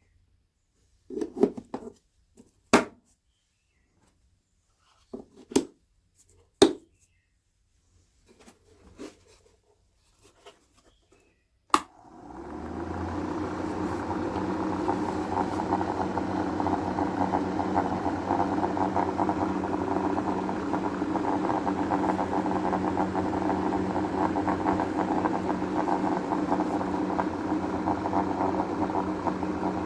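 A few scattered knocks and clicks of handling, then a sharp click about twelve seconds in as a small battery-powered electric motor spins up and runs steadily with an even hum.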